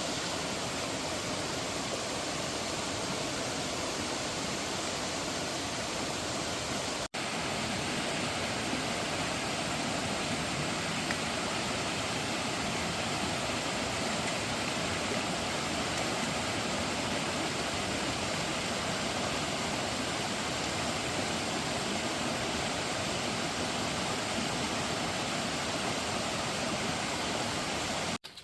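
Steady rushing of a waterfall, an even roar of falling water with no pauses, dropping out for an instant about seven seconds in.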